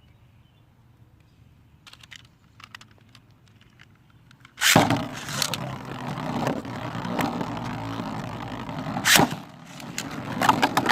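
Light clicks while Beyblades are readied in their launchers, then a sudden launch a bit under halfway through. After it, Beyblades spin and scrape around a plastic stadium, with one sharp clash near the end.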